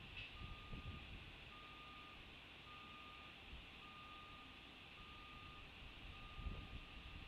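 Faint vehicle reversing alarm, a single-tone beep repeating about once a second, with occasional low rumbles on the microphone, strongest near the end.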